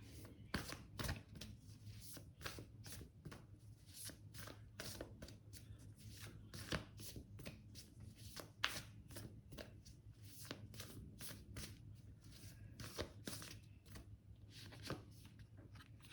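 A tarot deck being shuffled and handled by hand: a long run of soft, quick card snaps and flicks, several a second.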